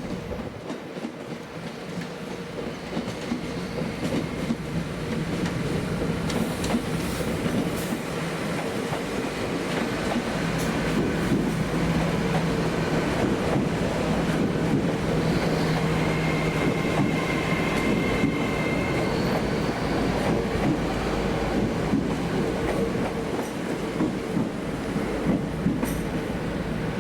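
Train running on the track, wheels clicking over rail joints. It grows louder over the first ten seconds or so, then holds steady with a low hum, and there are a few sharp clicks about seven seconds in.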